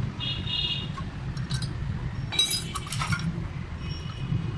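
Metal pieces clinking against each other several times with short ringing tones, loudest about halfway through, over a steady low hum.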